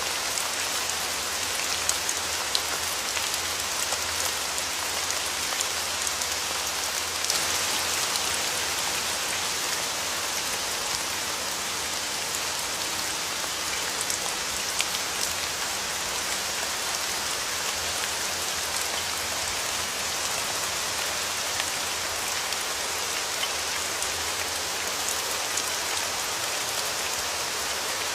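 Steady rain falling, an even hiss of rainfall with scattered sharper drop hits.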